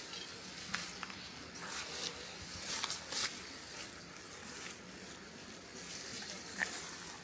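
Rustling with scattered light crackles and clicks.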